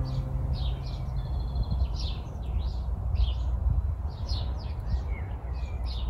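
Small songbirds chirping, short high falling notes about one or two a second with a brief whistled note a second in, over a steady low rumble.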